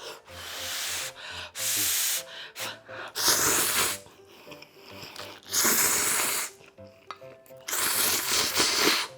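A person slurping spicy ramen noodles in five long, loud slurps about two seconds apart, over light background music.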